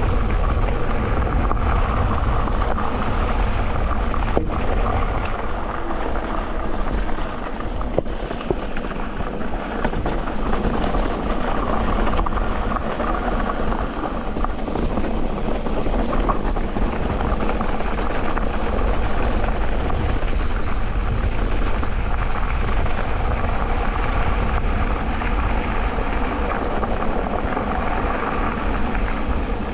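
Electric mountain bike ridden along a dirt trail: a steady rumble of tyres rolling over the ground and the bike rattling, with a few sharp knocks from bumps.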